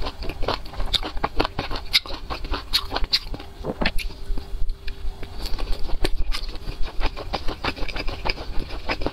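Close-miked mouth sounds of eating a chili-sauced skewer: a bite about four seconds in, with many short irregular chewing clicks, over a steady low hum.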